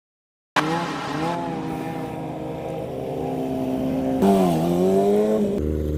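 Motorcycle engine running and revving, cutting in suddenly out of silence about half a second in, its pitch wandering with the throttle, then dipping and climbing again on a louder rev about four seconds in; the sound changes abruptly near the end.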